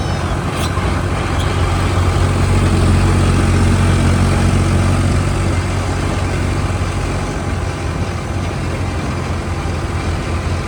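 Tractor engine running steadily with a low hum, swelling slightly a couple of seconds in.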